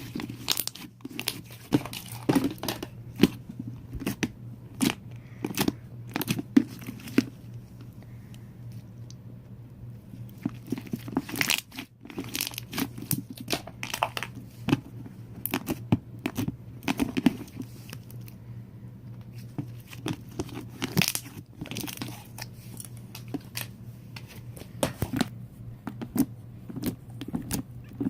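Slime being squished and worked by hand, with many irregular sharp pops, clicks and crackles over a steady low hum.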